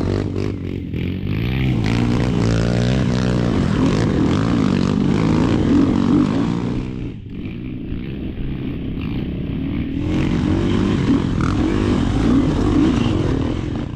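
Dirt bike engine running hard on a trail, revving up and down as it is ridden. It eases off for a few seconds about halfway through, then picks up again.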